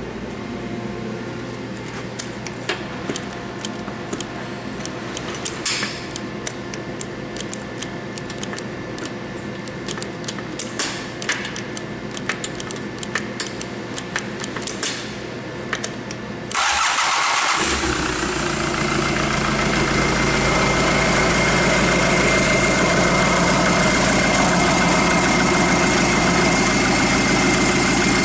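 Scattered clicks and light knocks over a steady hum. About 16 seconds in, a D4CB four-cylinder common-rail diesel engine starts and settles into a steady idle with a thin high whine.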